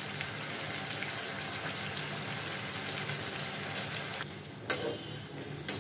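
Onion, tomato, garlic and green chillies frying in oil in a kadai: a steady sizzling hiss. About four seconds in the sizzle drops quieter, and two short knocks follow.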